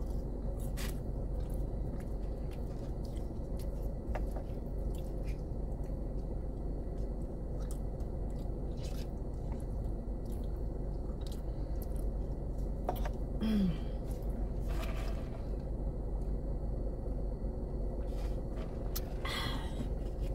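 Close-up chewing and mouth sounds of a person eating fries and mac and cheese, with scattered small clicks over a steady low hum.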